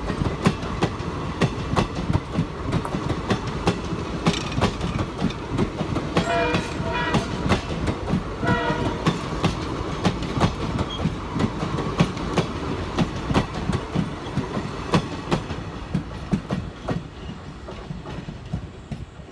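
Passenger train rolling past at speed, its wheels clicking rapidly and steadily over the rail joints. A few short tonal sounds come around the middle, and the sound eases off near the end.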